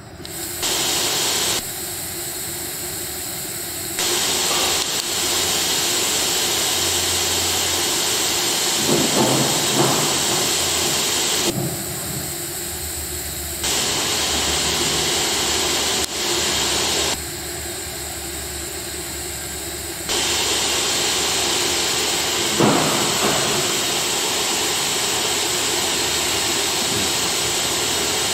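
CNC router running with a steady, loud hissing machine noise. It steps abruptly between louder and quieter levels several times, with brief rising sweeps around 9 s and 22 s.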